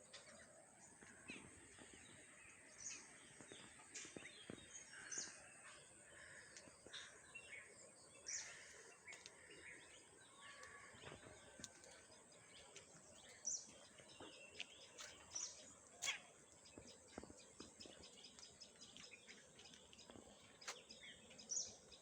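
Faint birdsong: many short chirps and tweets from several birds, scattered irregularly over a quiet background hiss.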